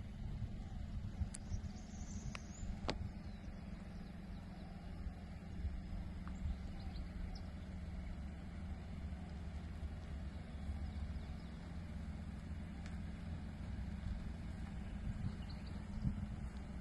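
Vehicle engine running steadily at low speed, a low rumble, with a few faint clicks.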